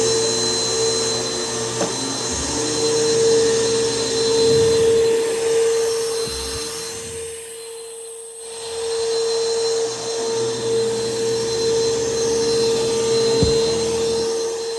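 Bissell PowerForce Helix 1240 upright vacuum cleaner running with a steady motor whine, its loudness swelling and easing, with a brief dip a little past halfway.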